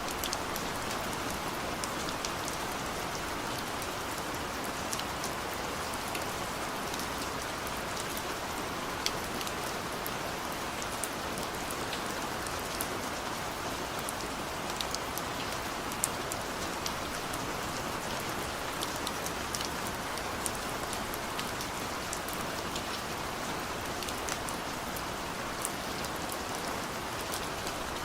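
Heavy rain falling steadily, with scattered sharper drop hits standing out from the even hiss.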